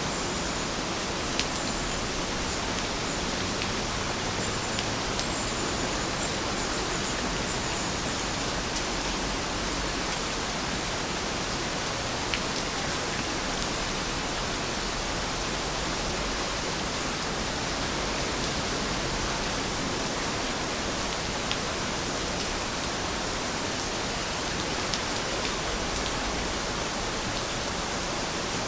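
Steady rain falling, an even hiss, with a few louder single drips ticking now and then.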